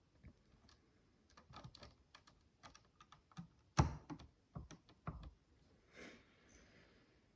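Micro building bricks being handled: many light, irregular plastic clicks and taps, with a louder knock about four seconds in and a brief soft rustle near the end.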